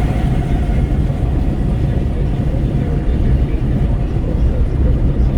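Wind rushing and buffeting through an open car window, with a heavy low rumble of road and tyre noise, heard from inside a Renault Kwid's cabin at highway speed.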